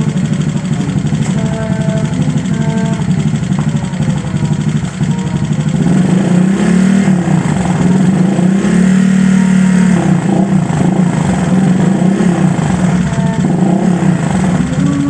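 Honda Vario 150 scooter's bored-up single-cylinder engine idling through an ABF Racing Standar Racing V2 aftermarket exhaust, then given light throttle blips several times from about six seconds in, each rising and falling back toward idle.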